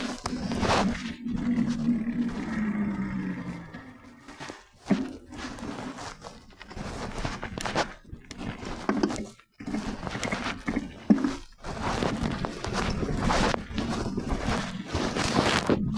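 Wind buffeting the microphone and the rumble of a mountain bike rolling over a dirt trail, rising and falling unevenly with a couple of brief dropouts.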